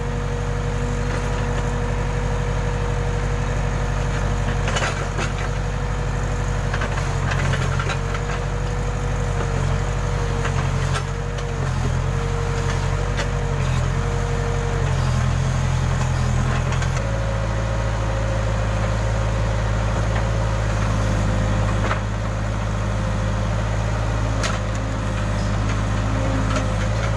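Case backhoe loader's diesel engine running while digging, with a wavering whine from the hydraulics; about 17 s in, the engine and whine settle to a new, steadier pitch. Occasional knocks from the machine's working parts.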